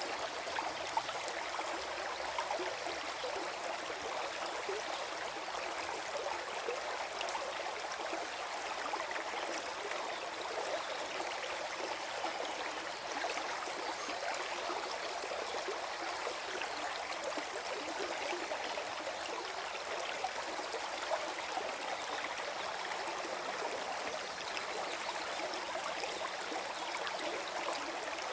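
Small forest stream flowing over stones, a steady gurgling of water.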